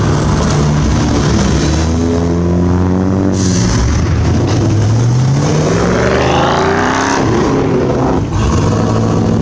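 Car engine revving: its pitch sinks, then climbs steadily for a few seconds before falling away suddenly about seven seconds in.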